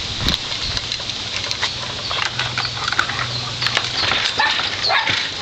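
Dogs moving about, giving a few short high whines among scattered clicks and rustles, over a low steady hum that stops about four seconds in.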